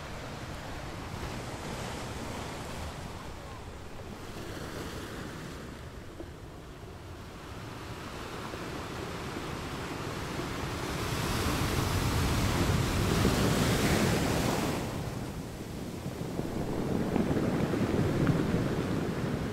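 Gentle ocean waves breaking and washing in: a rush of surf that swells and recedes, loudest about halfway through, with another swell near the end.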